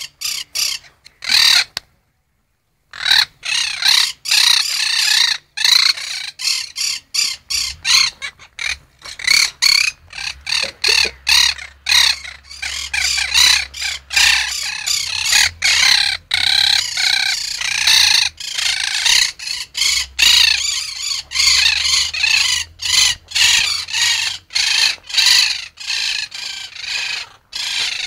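Birds screeching: a dense run of many short, harsh calls overlapping one another without letup, breaking off completely for about a second shortly after the start.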